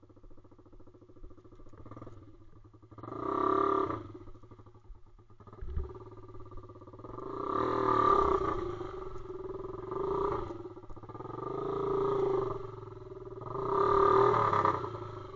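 Pit bike's small single-cylinder engine running, with four swells of revving as the rider works it harder.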